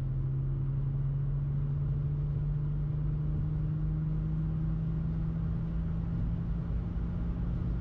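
Freshly rebuilt BMW N52 straight-six engine pulling at about half throttle in fifth gear, heard from inside the cabin. Its steady drone rises slowly in pitch as the revs climb: a break-in acceleration run.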